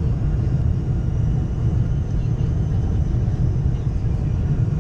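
Steady cabin noise inside a Boeing 747-400 airliner: an even low rumble of engines and airflow.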